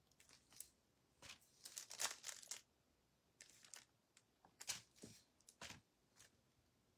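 Near silence broken by faint, scattered taps and crinkly rustles of small hand-handling work, such as a dotting tool and the kettle being worked on.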